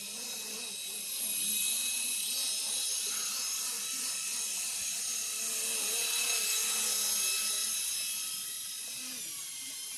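Custom micro RC helicopter hovering: the high whine of its tiny electric motors and spinning rotors. The pitch drifts up and down a little and the level swells slightly, then eases toward the end.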